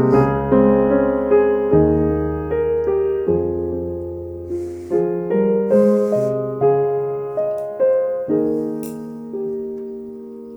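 Background piano music: slow, gentle notes struck one after another, each left to ring and fade.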